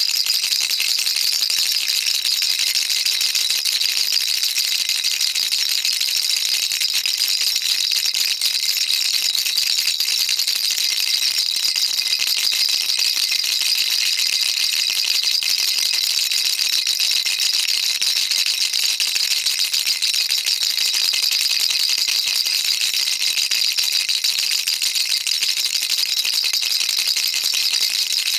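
Baby rattle shaken continuously: a steady, high-pitched rattling of small beads inside the toy, with no pauses.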